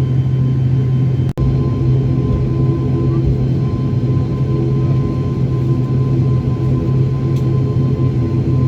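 Steady drone of an ATR 72-600's twin turboprop engines heard inside the passenger cabin, with a low hum and a thin steady whine on top. The sound cuts out for an instant about a second in.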